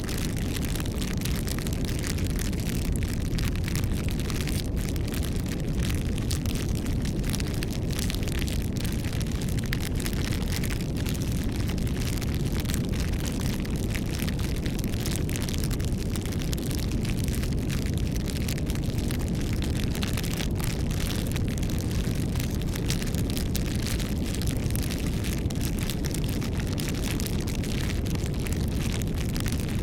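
Campfire burning, its wood crackling and popping in many small sharp clicks over a steady low rushing of flames.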